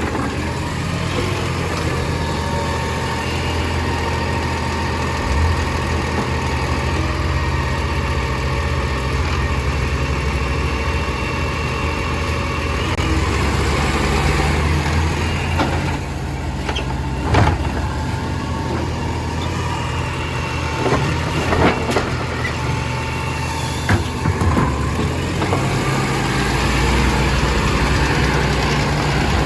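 Compost collection truck's engine running steadily, with a few sharp knocks and clunks in the second half.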